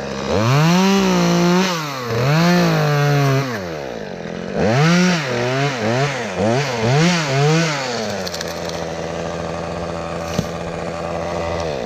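Chainsaw cutting out the top of a willow tree. It revs up and down, two long revs and then a run of about five quick ones, settles to a steady lower speed for the last few seconds, and cuts off at the end.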